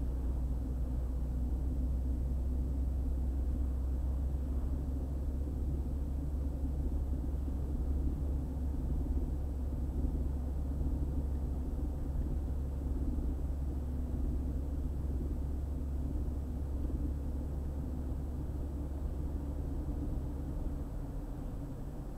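Car driving at road speed: a steady deep road-and-engine rumble with tyre noise, and the lowest rumble drops away about a second before the end.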